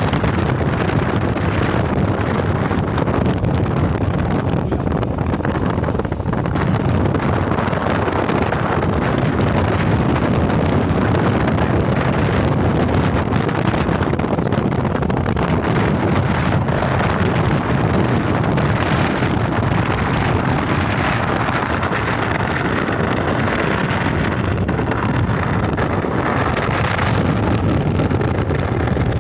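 Steady wind rushing over the microphone on a moving motorcycle, with the vehicle's running noise underneath.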